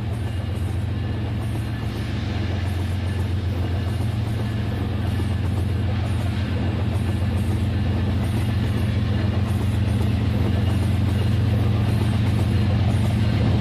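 Rail King O-gauge model train running on track: a steady electric motor hum with the rattle of wheels on the rails, growing gradually louder.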